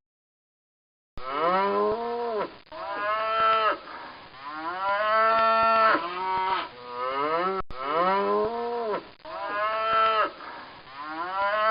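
Cow mooing: a series of long, repeated calls that rise in pitch and then level off.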